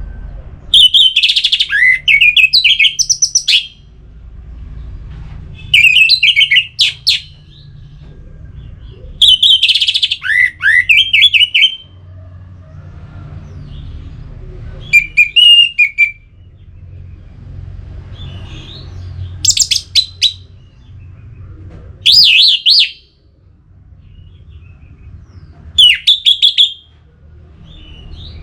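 Orange-headed thrush singing: seven loud phrases of rich, fast-changing whistles and trills, each one to three seconds long, separated by pauses of a few seconds, over a faint low rumble.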